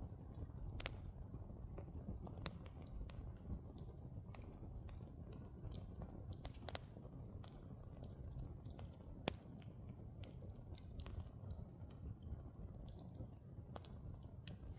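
Firewood burning, with a steady low rush of flame and irregular sharp crackles and pops from the burning logs, the loudest two at about two and a half seconds in and just past nine seconds.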